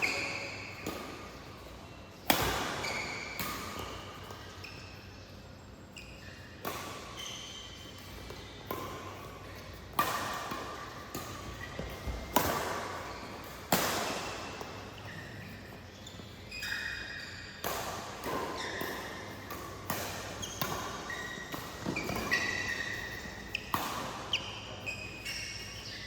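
Badminton rallies in a doubles game: rackets striking the shuttlecock in sharp, echoing hits every second or two, some much harder than others, with short squeaks of court shoes between the shots.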